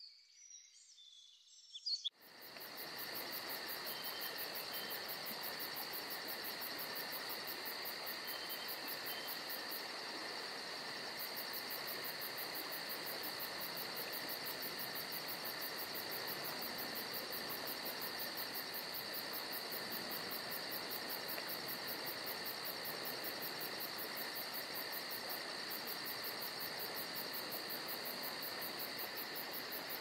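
A steady chorus of chirping insects, high-pitched and unbroken, setting in about two seconds in after a few brief bird chirps.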